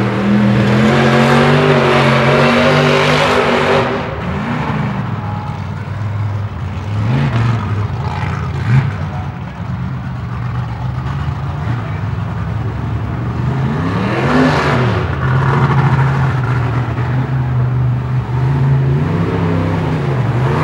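Mud truck engine revving hard and dropping back again and again as it works through the mud pit, with one sharp bang about nine seconds in.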